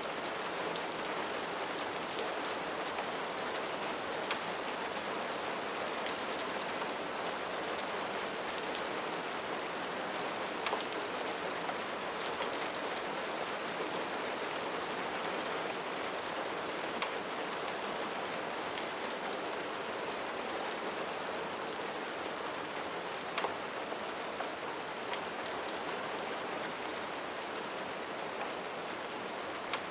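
Steady rain falling on a surface, an even hiss with a few sharp ticks scattered through it.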